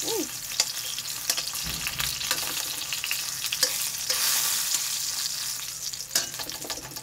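Eggplant slices sizzling and crackling in hot oil in a stainless steel frying pan, with a few sharp clicks of wire tongs against the pan as the slices are turned.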